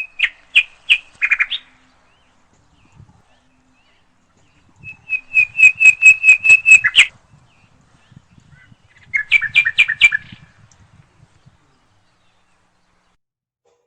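A bird calling in three bursts of rapid, repeated high chirps. The middle burst is the longest and loudest, about ten notes in quick succession.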